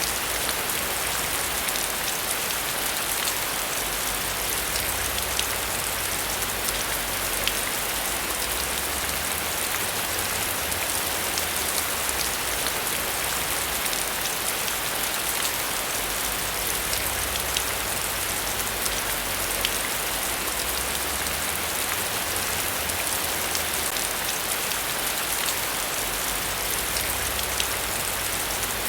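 Steady rain falling without a break, with scattered sharper drop hits.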